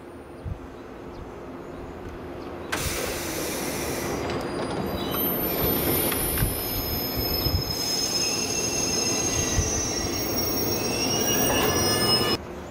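JR East 189-series electric train pulling in along the platform, its running noise growing as it nears, with several steady high-pitched wheel and brake squeals from about five seconds in as it slows. The sound cuts off abruptly near the end.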